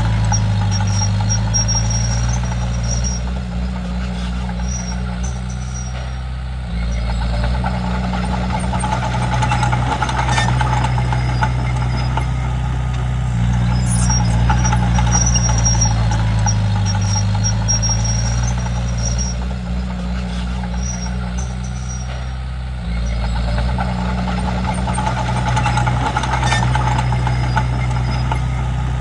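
Komatsu D31P bulldozer's diesel engine running steadily as the dozer works, its note dropping and easing off for a few seconds twice before picking up again. A faint high-pitched squeal comes and goes over it.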